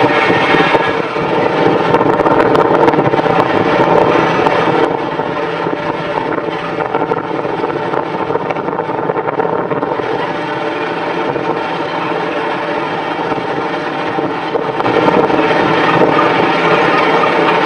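A machine's engine running steadily. It eases off about five seconds in and grows louder again near the end.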